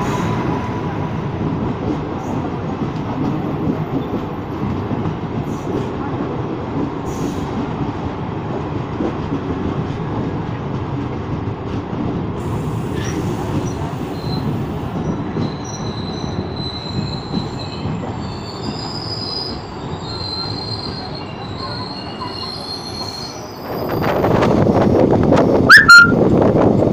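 Passenger coaches running past at speed close by, a steady rumble of wheels on rail, with high squealing tones from the wheels in the second half. About 24 seconds in it changes to louder wind buffeting and running noise from the open side of a moving train.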